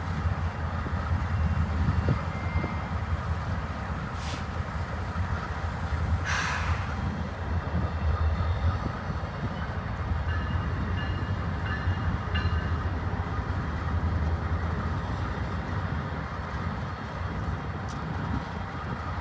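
Freight train rolling past with a steady low rumble of wheels on rail. Two short hissing bursts come about four and six seconds in.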